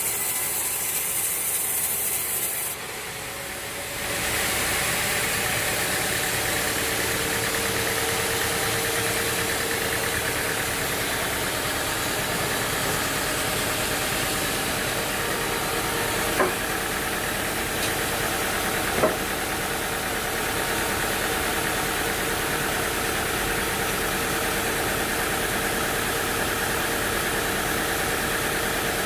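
Sawmill engine running steadily. A brief hissing sound near the start cuts off and the level dips for about a second, then the steady running resumes, with two light knocks past the middle.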